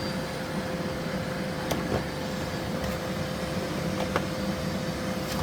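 Miele Blizzard CX1 cylinder vacuum cleaner running with a steady hum, with a few light knocks.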